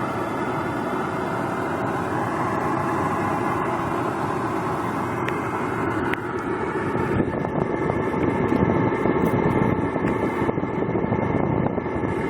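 Goodman outdoor HVAC unit running steadily, a continuous mechanical hum that grows somewhat louder about seven seconds in.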